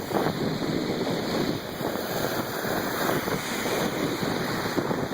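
Wind blowing across a phone's microphone: a steady rush of noise with no clear tones.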